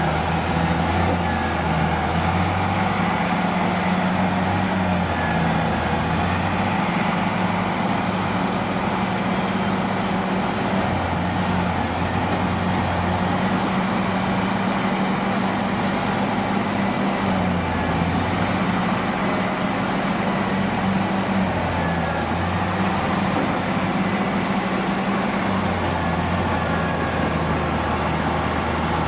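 Heavy diesel vehicle engines running, with a low engine hum that drops out and returns every few seconds.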